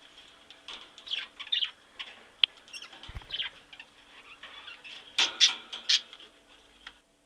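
Birds giving short, high chirping calls, with a louder run of sharp calls about five seconds in and a single low thump partway through. The calls cut off abruptly just before the end.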